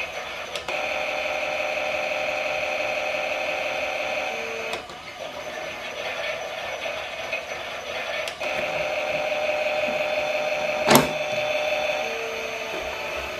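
Klein toy Miele washing machine's small motor whirring as it turns the drum. It stops for about four seconds midway, then starts again, with one sharp click towards the end.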